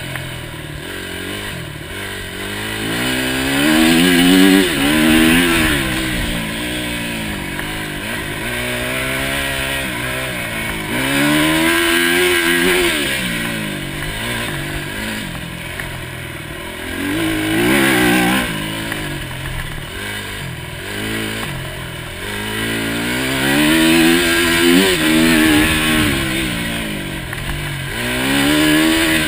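Enduro motorcycle engine under hard riding, heard up close from the handlebars: it revs up and drops back again and again as the throttle opens and closes and the gears change, with several loud surges.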